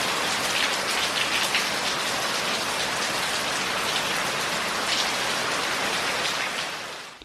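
Heavy rain falling steadily, fading out just before the end.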